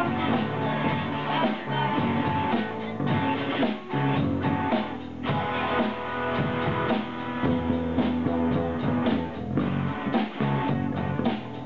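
A small rock band playing live, with guitar over bass and a drum kit and no vocals in this passage.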